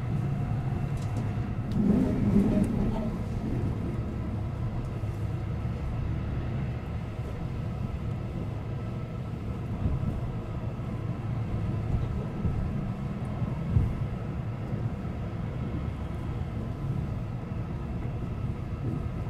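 Ride noise inside a Keihan 8000 series 'Elegant Saloon' commuter train running at speed: a steady low rumble of wheels on rail, with a brief louder swell about two seconds in and a short knock around fourteen seconds.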